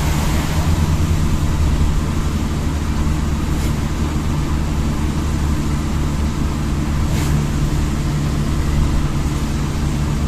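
Vehicle engine running steadily under a continuous hiss of road and rain noise while driving. Two short sharp sounds come about three and a half seconds apart.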